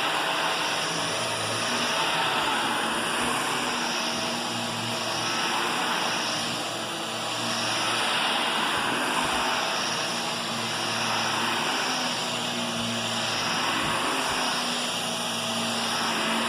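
Vacuum cleaner running: a steady rush of air with a motor hum and whine, its level gently swelling and easing every few seconds.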